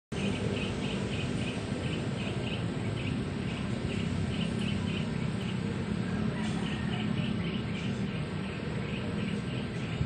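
A bird calling in a steady series of short, high chirps, about three to four a second, over a constant low background rumble.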